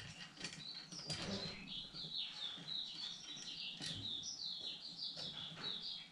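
A small bird twittering: a fast, unbroken run of short high chirps. A few light clicks come from a metal accessory arm being fitted to a camera cage.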